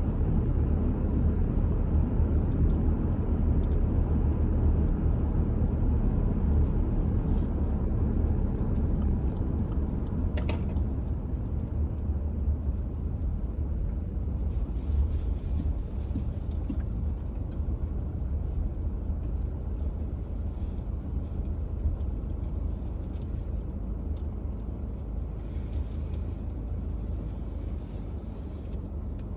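A moving car's low, steady engine and road rumble, growing gradually quieter toward the end, with a single short click about ten seconds in.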